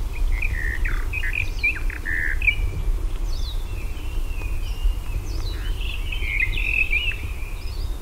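Songbird singing: a busy series of short chirps and whistled notes, densest near the end, over a steady low background rumble.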